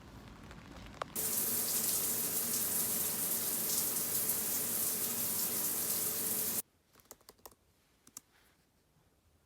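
Water running hard from a tap, starting suddenly about a second in and cutting off sharply after about five and a half seconds, followed by a few light clicks.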